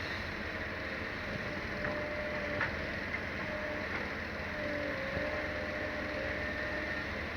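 Heavy diesel excavator working: steady engine running with a thin tone that drifts slightly, and a few light knocks.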